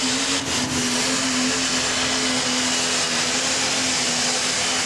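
Diesel super stock pulling tractor engine running at high revs: a steady whine over a loud, constant hiss.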